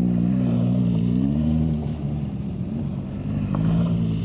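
BMW GS flat-twin motorcycle engine running under throttle: it revs up sharply at the start, eases off, then picks up again about three and a half seconds in.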